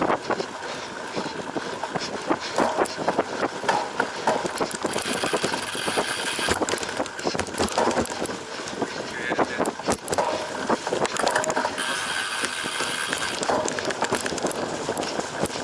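Cyclocross bike ridden over rough off-road ground: a constant clatter of irregular knocks and rattles from the bike, with tyre noise. Twice, about five and twelve seconds in, a brighter hiss rises for a second or two.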